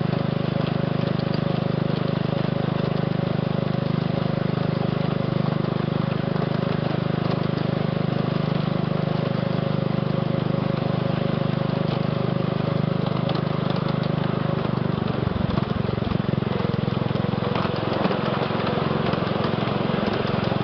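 The small engine of a ride-on scale switcher locomotive running steadily during the ride, a constant drone; its sound changes slightly about fifteen seconds in, with a few light clicks.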